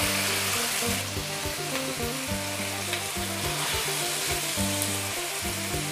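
Naem (fermented pork), garlic and a freshly cracked egg sizzling in hot oil in a nonstick wok, with a spatula stirring and scraping, giving a few light ticks.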